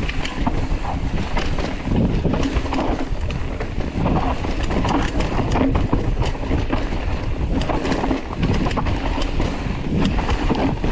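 Mountain bike rattling down a rough, rocky trail: tyres rolling over dirt and rock with constant small knocks and clicks from the bike, and wind buffeting the microphone.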